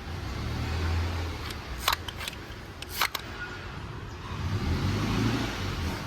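VW Polo GT engine running, its low hum getting louder twice as the revs rise, with two sharp clicks in between.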